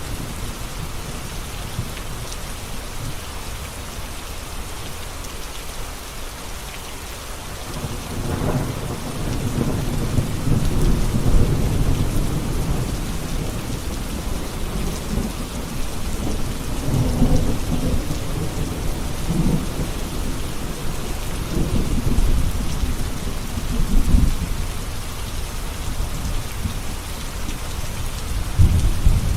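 Steady rain with rolling thunder: a low rumble builds about a third of the way in and swells again several times.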